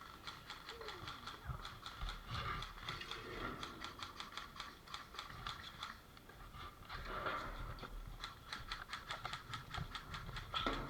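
Airsoft guns firing in runs of rapid sharp clicks, with the mechanical rattle of electric gearboxes cycling.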